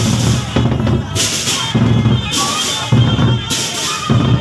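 Gendang beleq ensemble playing: big barrel drums beating a steady, driving rhythm, with cymbal crashes about once a second and a pitched melody line above.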